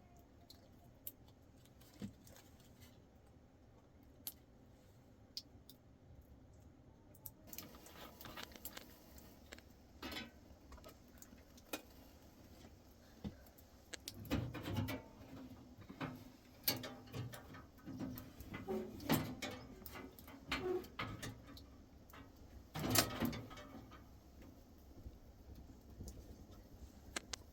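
Irregular clinks and knocks of objects being handled: a few sparse clicks at first, then frequent clattering from about seven seconds in, loudest around the middle and again near the end.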